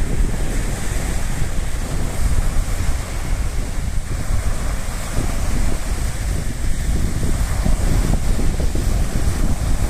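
Wind buffeting the microphone in a loud, uneven rumble, over the steady wash of sea waves on the shore.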